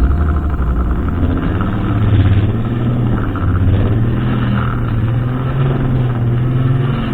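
Brushcutter engine running steadily at working speed, its pitch shifting up and down a little.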